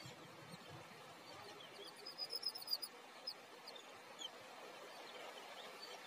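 Birds chirping outdoors: a quick run of high chirps about two seconds in, then a few scattered single chirps over faint background noise.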